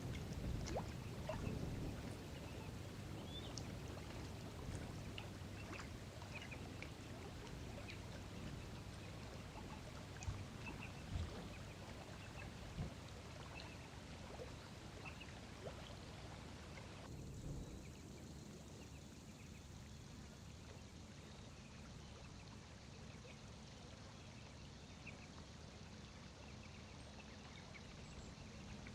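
Quiet outdoor ambience: a low steady rumble with scattered small clicks and faint short chirps. The background changes abruptly about seventeen seconds in.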